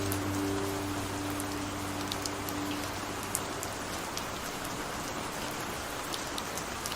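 Steady rain falling, an even hiss with scattered small drop ticks. The last held notes of a song fade out over the first few seconds, leaving the rain alone.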